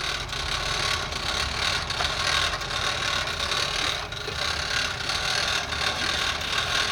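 A train running, a steady rumble with a rattling hiss.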